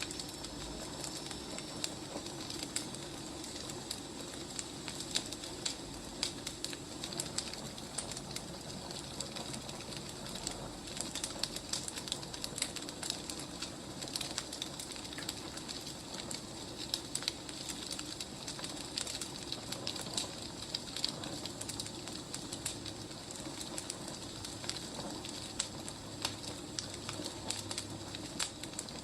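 Burning firewood crackling, with frequent irregular snaps and pops over a steady background hiss.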